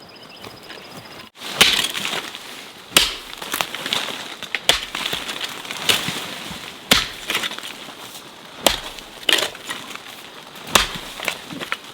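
Repeated heavy strikes of a hand tool, one every one to two seconds, each followed by a short crumbling, rustling noise. The strikes begin about a second and a half in.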